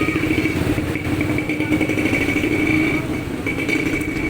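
A small motorcycle engine running steadily, its rapid firing pulses even throughout, with a steady high-pitched whine alongside.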